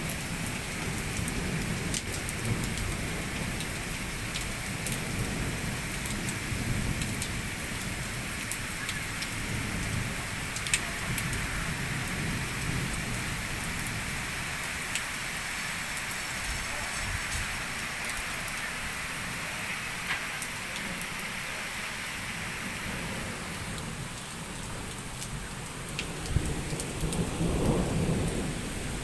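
Heavy rain falling steadily during a thunderstorm, with scattered sharp ticks of drops striking a surface and low rolling thunder that swells near the end.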